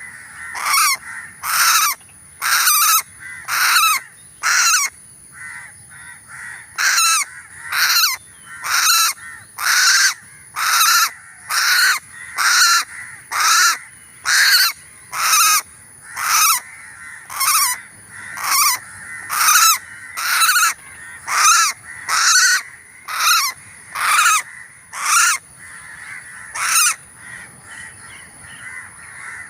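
A bird, taken in a mist net, giving loud, harsh calls over and over, roughly one or two a second.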